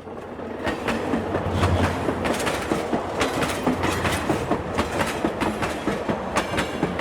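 Lionel O-scale model train running on its track, its wheels clattering with a quick, irregular clicking. It grows louder over the first second and then runs on steadily.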